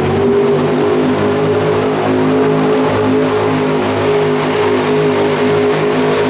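Pulling truck's engine running loud at a high, nearly steady speed, its pitch wavering only slightly.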